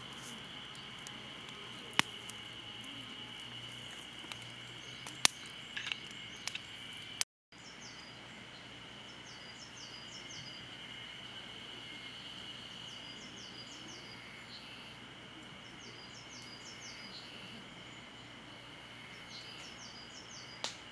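Twig campfire crackling, with a few sharp pops in the first few seconds, over a steady high-pitched chorus of insects. After a sudden cut, groups of short repeated bird chirps come several times over the same insect drone.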